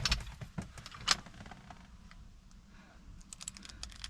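Scattered small metallic clicks and rattles of an ignition key cylinder being worked against its lock housing. A sharp click comes about a second in and fainter ticks near the end, as the cylinder fails to line up and seat.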